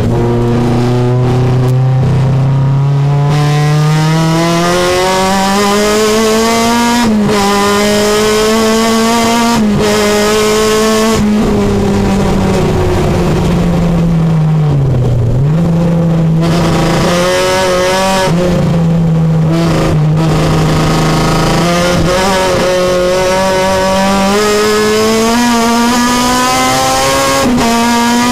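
Supercharged Honda K24 2.4-litre four-cylinder engine of a Civic race car at full throttle, heard from inside the cabin, rising in pitch through each gear with quick upshifts that drop the revs. About halfway it eases off and the revs dip before it pulls hard again.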